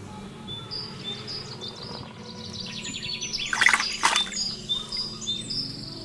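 Birds chirping with short repeated high trills, and a louder burst of calls about three and a half to four seconds in.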